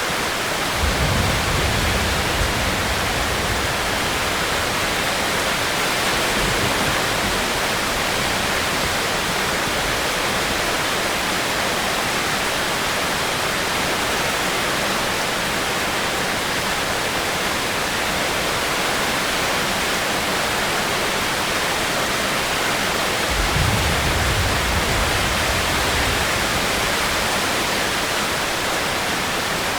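Steady, even hiss of heavy rain. Two low rumbles of a few seconds each come through under it, one about a second in and one near the end.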